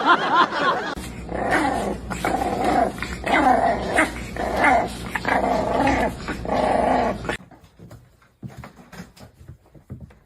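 A dog growling in a run of short, rhythmic grumbles, about one and a half a second, that stop suddenly about seven seconds in.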